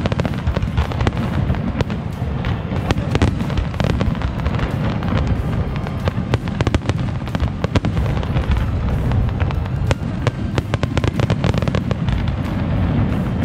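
Fireworks display: a rapid, continuous barrage of overlapping shell bursts and crackling, with heavy low booms under many sharp bangs that come thickest in the second half.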